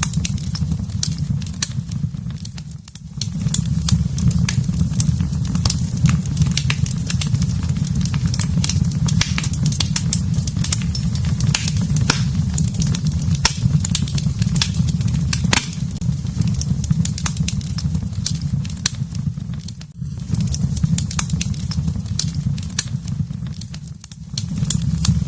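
Wood fire in a fireplace crackling, with frequent sharp pops and snaps over a steady low rumble of the flames. The low rumble drops away briefly a few times.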